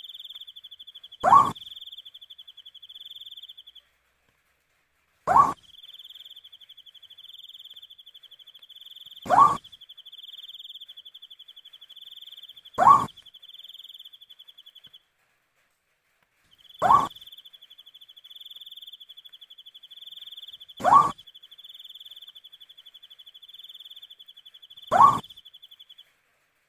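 Owl giving a short rising hoot about every four seconds, seven times in all, over a steady pulsing cricket trill that drops out briefly twice.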